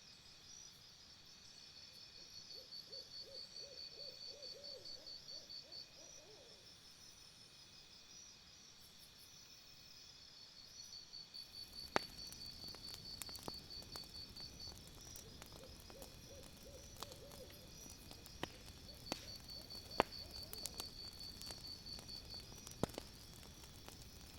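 Quiet outdoor ambience: a bird gives two quick runs of low, rapid hoots, over a high, fast trill that comes and goes. About halfway through, a wood fire starts crackling with scattered sharp pops.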